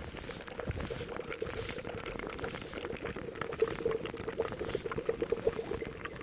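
Liquid boiling in a pot or cauldron, with a steady run of bubbling and gurgling that is thickest about halfway through, over a soft patter of small clicks.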